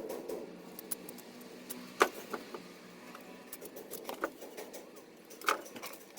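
A few sharp metallic clicks and knocks of hand tools and engine parts being handled, the loudest about two seconds in and again near the end, over a faint steady background hum.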